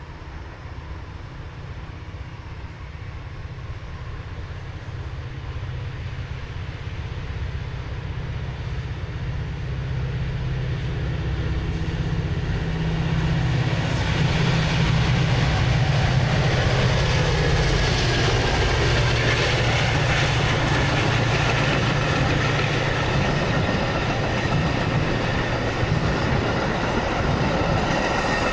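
Metra diesel commuter train approaching on the tracks, the engine hum and the sound of wheels on rails growing steadily louder for about fourteen seconds, then staying loud as it runs close by.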